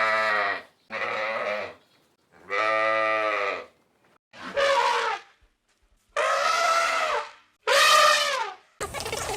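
A farm animal calling six times, each cry drawn out for about a second with short pauses between; the first three are lower-pitched and the last three higher, with a wavering pitch.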